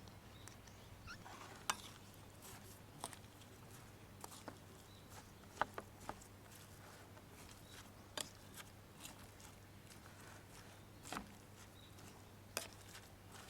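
Wood campfire crackling: irregular sharp pops and snaps, a dozen or so spread unevenly over a quiet, steady background.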